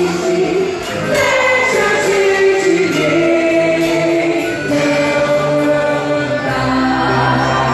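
Music with a choir singing long held notes; a deep bass comes in about six and a half seconds in.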